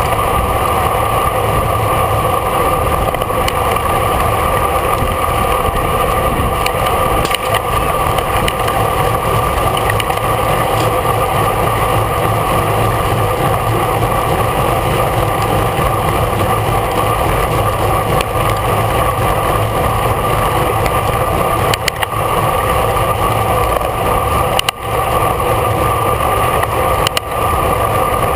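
Steady, loud wind rush and tyre hum of a road bike racing at speed, picked up by a camera riding on the bike or rider, with a few brief dips in the rush near the end.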